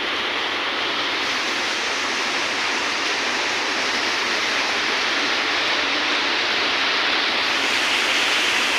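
Steady rushing of water pouring down an artificial stepped waterfall, with no pitched tones. It grows a little louder and brighter toward the end.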